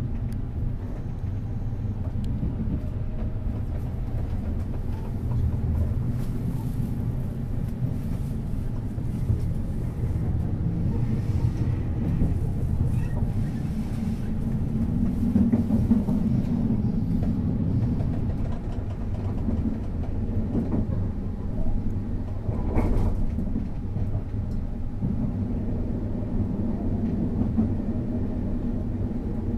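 Passenger train running along the track, heard from inside the carriage: a steady low rumble of wheels on rails, with one sharp knock about three-quarters of the way through.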